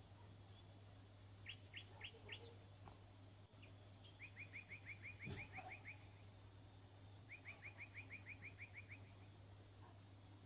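Faint bird song: three separate chirps, then two fast trills of short downward-sweeping notes, about ten a second and each lasting about two seconds, with a soft knock between them. A steady low hum lies underneath.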